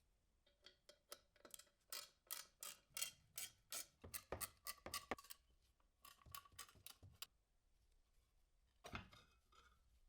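A quick run of sharp metallic clicks, about three or four a second, some with a short ring, stopping about 7 s in. About two seconds later there is one louder knock.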